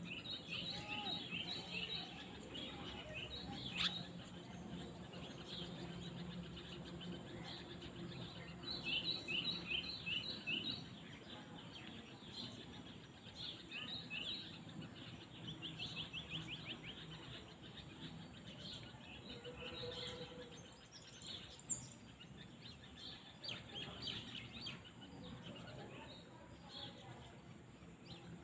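Outdoor field ambience with small birds chirping in several quick runs of short, high notes over a steady background hiss. A single sharp click comes a few seconds in.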